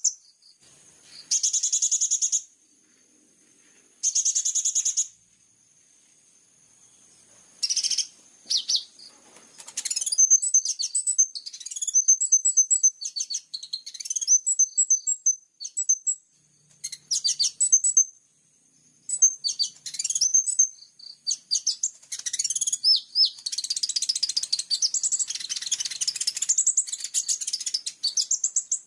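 Recorded high-pitched songbird song from a training track for kolibri ninja sunbirds: three harsh buzzy phrases about a second long in the first few seconds, then from about ten seconds in a fast, varied run of chirps and trills. A faint steady high whine lies underneath.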